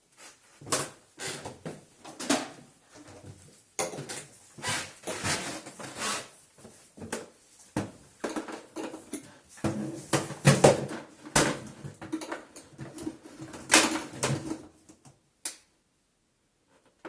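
Irregular clicks, knocks and rattles of hard plastic vacuum-cleaner parts being handled and fitted together, for about fifteen seconds, with a few louder knocks; they stop shortly before the end.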